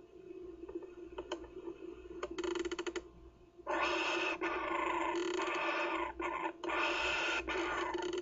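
Kookaburra chick giving harsh, rasping calls: a quick rattle, then two long raspy calls from about the middle on.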